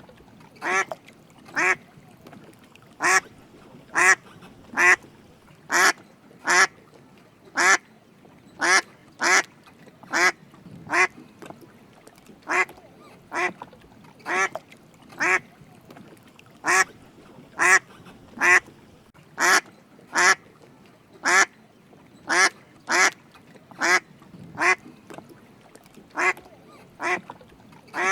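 Drake mallard ducks quacking: short calls repeated about once a second, often in twos and threes.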